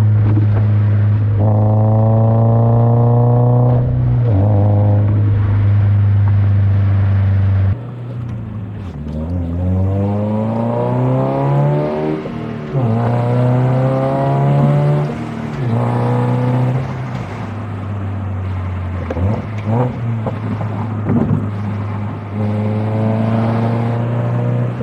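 Subaru BRZ 2.4-litre flat-four through an aftermarket single-exit cat-back exhaust, recorded at the tailpipe while driving. A steady low drone for the first eight seconds, then it drops and the revs climb and fall back several times as the car accelerates through the gears.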